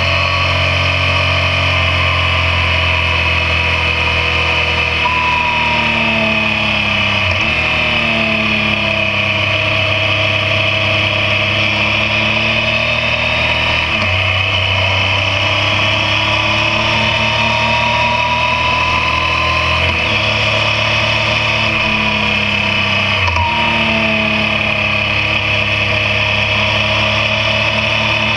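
Yamaha MT-09 inline-three engine running on the move, its note rising and falling with the throttle and breaking off briefly four times, about 7, 14, 20 and 23 seconds in. A steady rush of wind on the microphone runs under it.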